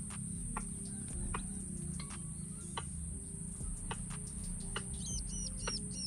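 Scattered short chirps of small birds, with three quick chirps in a row near the end, over a steady high-pitched insect buzz.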